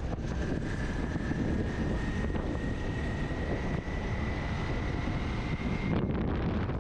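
Wind buffeting the microphone as a steady low rumble, with a faint thin whine that rises slowly in pitch and stops about six seconds in.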